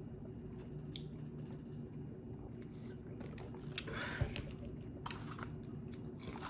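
A person chewing fast food with mouth noises and a few small clicks, and a brief rustle and thump about four seconds in, over a steady low hum.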